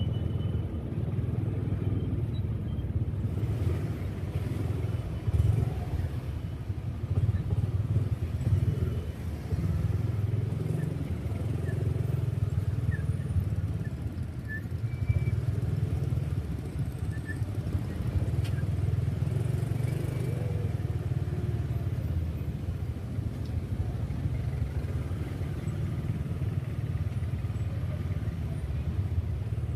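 Motorcycle engine and road noise heard while riding: a continuous low rumble that swells and eases as the bike speeds up and slows.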